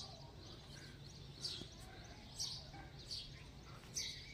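Faint birdsong: short, high chirps repeated about once a second, over a low steady hum.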